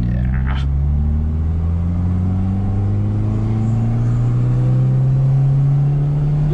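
A 2006 Proton Savvy's 1.2-litre four-cylinder engine pulling under acceleration, its revs climbing slowly and steadily.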